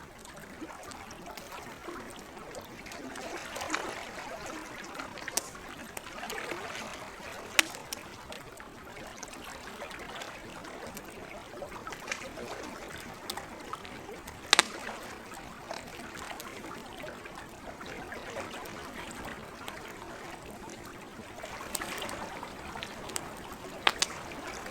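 Campfire crackling over the gentle trickle and splash of lake water, with a few sharp pops from the fire, the loudest about halfway through.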